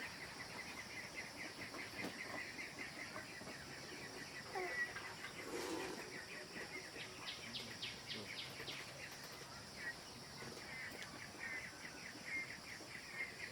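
Small birds chirping over and over, with a quick run of chirps partway through, over a steady high-pitched hiss.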